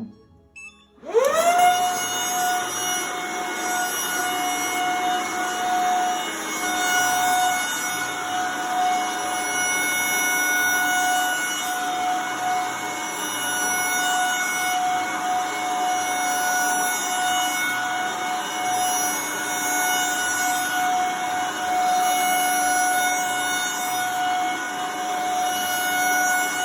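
Vacuum cleaner switched on about a second in, its motor spinning up quickly and then running on its high setting with a steady, high-pitched screeching whine over the rush of air. The owner says it was not making that screeching high noise before.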